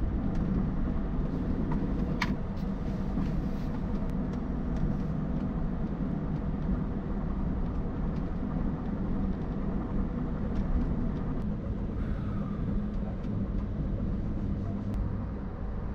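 Steady low rumble and hum of an Amtrak passenger train car in motion, heard from inside, with a few faint clicks and rattles.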